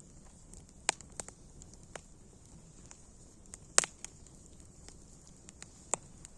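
Wood fire crackling: a handful of sharp pops scattered over a faint steady hiss, the loudest pop about four seconds in.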